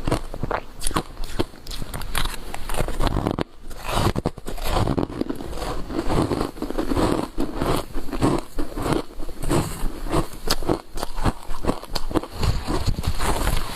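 Matcha powder ice being bitten and chewed close to the microphone: a dense, irregular run of sharp crunches and cracks, with a brief pause about three and a half seconds in.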